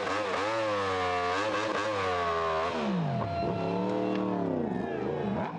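Superbike engine revving, the revs swinging up and down several times with one deep drop and climb about three seconds in.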